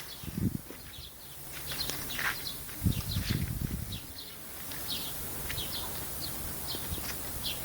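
Small birds chirping: many short, high chirps, one after another. Low rumbles come in briefly near the start and again about three seconds in.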